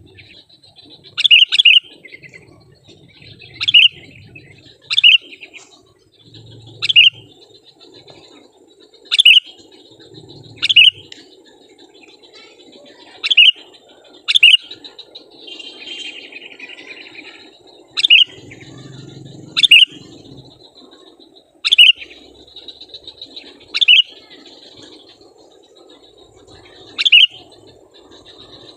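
Sooty-headed bulbul (kutilang) calling over and over: short, loud, bubbly call notes every second or two, about fifteen in all.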